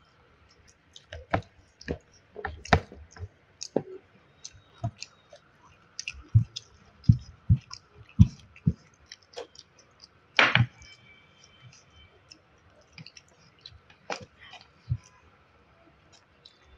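Close-miked eating sounds of a person chewing food: irregular mouth clicks and smacks, with a few soft low thuds and one louder sharp noise about ten seconds in.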